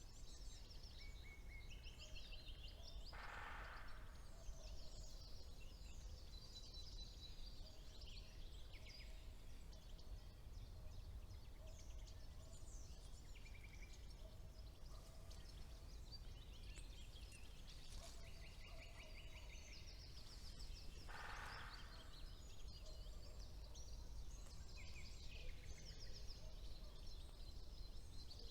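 Several songbirds singing in spring woodland, a nightingale among them, with quick repeated-note trills and high chirps. Twice, about 18 seconds apart, a short trill is followed by a brief harsh noisy call. A steady low rumble runs underneath.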